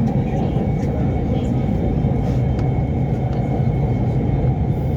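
Lahore Orange Line electric metro train running between stations, heard from inside the carriage: a steady rumble with a low hum and a faint high whine.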